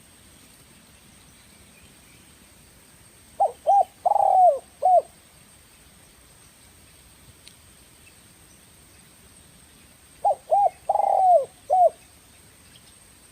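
Spotted dove cooing: two phrases about seven seconds apart. Each has two short coos, a longer falling coo and a short closing coo.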